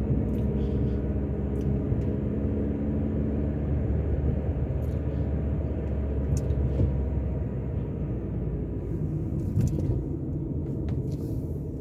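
Car running while driving, a steady low engine and road rumble.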